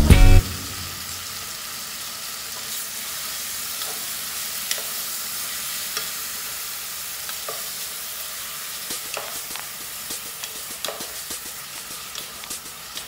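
Beef and onion slices sizzling steadily in a large aluminium pot, stirred with a wooden spatula that scrapes and knocks against the pot now and then.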